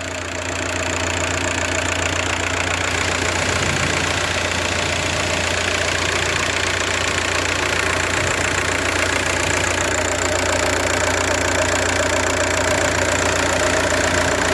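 Diesel car engine idling steadily.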